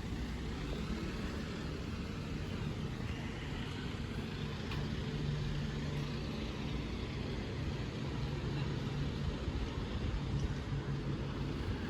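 A motor vehicle's engine running steadily with a low hum, under low wind rumble on the microphone.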